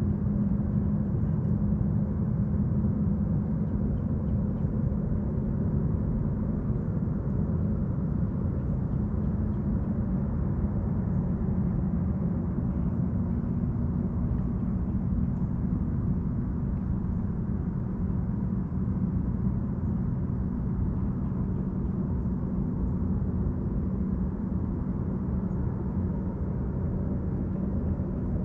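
Steady low engine drone, a motor running at a constant pitch without rising or fading.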